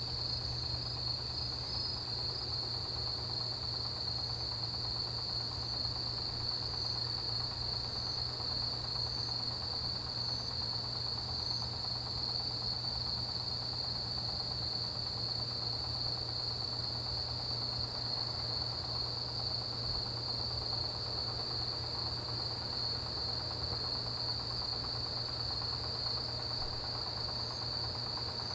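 Autumn grass insects, crickets, calling in chorus: one steady unbroken high trill, with a higher, faster pulsing chirping layered over it that comes and goes. A low steady hum runs underneath.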